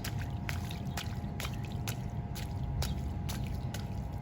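Footsteps in a shallow rain puddle, about two a second, over a steady low rumble.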